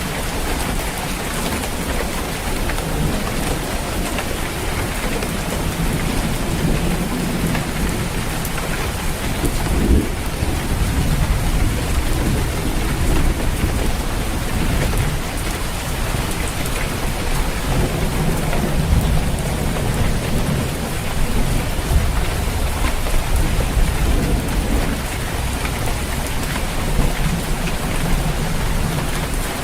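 Steady heavy rain falling on a roof, with low rolls of thunder rumbling several times, strongest from about six to thirteen seconds in and again around twenty seconds.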